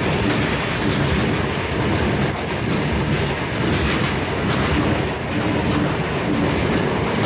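Long freight train of covered goods wagons rolling past close by: a steady, loud rumble and rattle of steel wheels on the rails.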